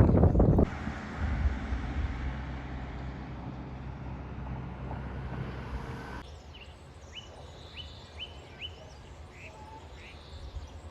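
A motor vehicle passes close by and its engine hum fades away over several seconds. After an abrupt cut about six seconds in, quieter outdoor ambience holds a bird's run of short, high, falling chirps.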